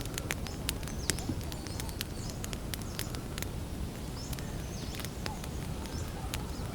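Wood campfire crackling: irregular sharp pops and snaps, several a second, over a steady low rumble of burning. Small birds chirp faintly in the background.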